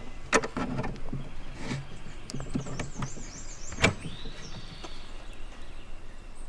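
Wooden beehive-style storage cabinet being opened by hand: light knocks and clicks of wooden parts being lifted and slid, with one sharp knock near the middle.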